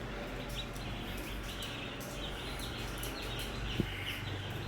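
A flock of young broiler chicks peeping continuously, many short high chirps overlapping, over a low steady hum. One brief click about four seconds in.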